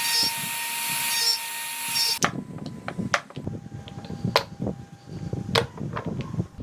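A power tool running on wood with a steady whine for about two seconds, then cutting off suddenly. After that come scattered sharp taps and knocks of hand work on the wood.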